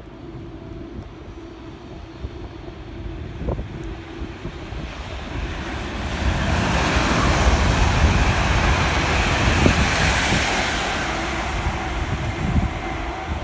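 Passenger train passing through the station at speed: a rushing rumble that builds from about six seconds in, is loudest a few seconds later, then eases off. Wind noise on the microphone underneath.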